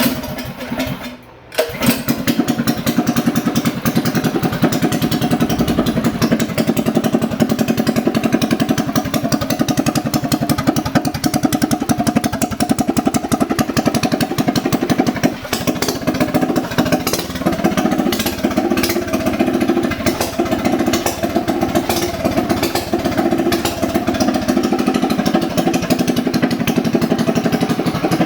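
Minibike's small single-cylinder engine with a three-piece aftermarket exhaust cold-starting: it fires, stumbles briefly, catches about two seconds in, and then runs steadily with a loud, rapid exhaust beat.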